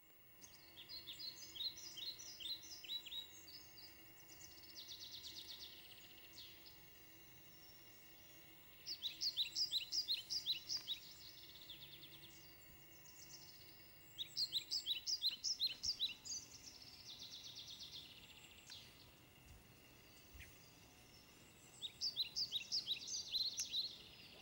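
A songbird singing: a phrase of rapid, repeated high falling notes lasting about two seconds, given four times, with buzzier trills in between, over faint steady outdoor background noise.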